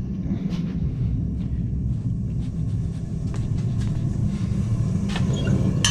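A forge running with a steady low rumble, with a few faint clicks and taps over it.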